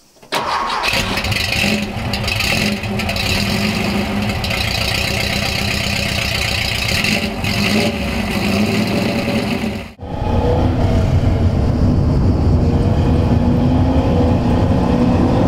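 Porsche 914 2.0's air-cooled flat-four engine running and revving under acceleration. About ten seconds in the sound cuts to a steadier, deeper drone whose pitch climbs twice as the car pulls through the revs.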